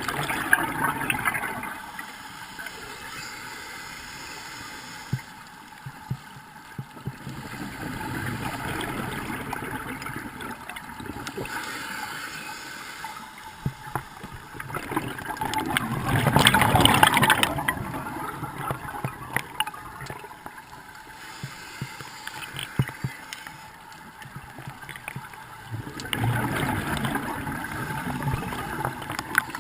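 Bubbling and gurgling water in swells every few seconds, the loudest about halfway through, typical of a scuba diver breathing through a regulator underwater and exhaling bubbles.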